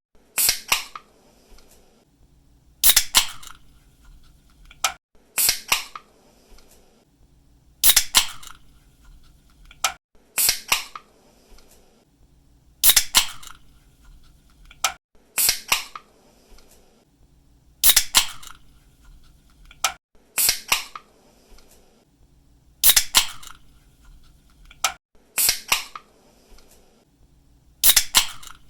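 Pull-tab of an aluminium drink can being cracked open again and again: each opening is a sharp snap followed by a brief hiss, repeating evenly about every two and a half seconds, about a dozen times.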